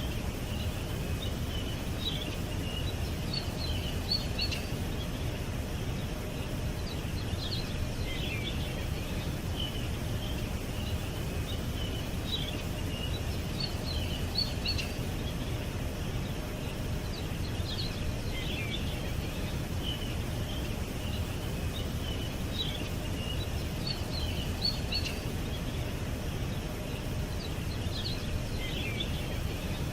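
Songbirds chirping in short, repeated high phrases every few seconds, over a steady low rumble of background noise.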